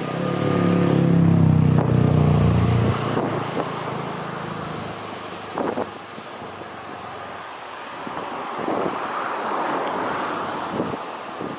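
Airbus A330-900neo's Rolls-Royce Trent 7000 jet engines running during the takeoff. A loud pitched rumble fades after about three seconds into a steady rushing noise, with a few sharp clicks.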